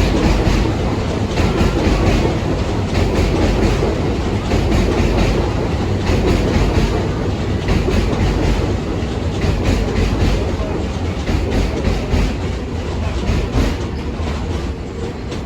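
New York City subway train running past on its rails, wheels clicking rhythmically over rail joints, the sound easing slightly near the end.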